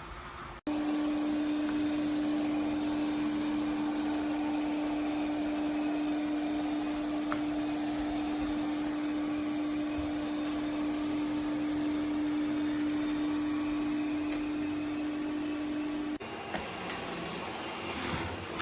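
ECOVACS DEEBOT T50 Pro Omni vacuum motor running: a steady whooshing hum with one constant tone. It starts suddenly about a second in and cuts off suddenly near the end.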